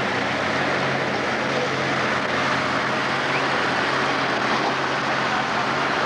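Pro stock pulling tractor's turbocharged diesel engine running at a steady speed, with no revving.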